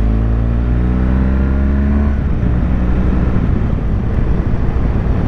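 BMW R1200GS boxer-twin engine accelerating, its pitch rising steadily for about two seconds. The engine then fades into steady wind and road noise as the bike rides on.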